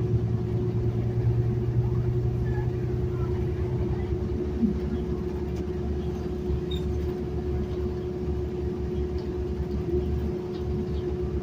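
Steady ride noise inside a moving city transit bus: low engine and road rumble with a constant whine. A lower drone drops away about four seconds in.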